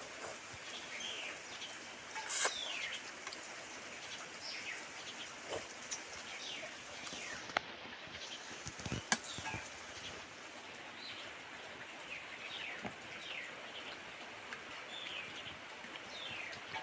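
Birds chirping: short falling calls repeating every second or so over quiet outdoor background noise. A few sharp clicks or knocks are mixed in, the loudest about two seconds in.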